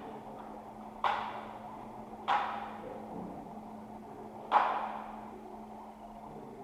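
Three sharp knocks about a second in, just past two seconds and about four and a half seconds in, each ringing out briefly, the last the loudest, over a steady low hum.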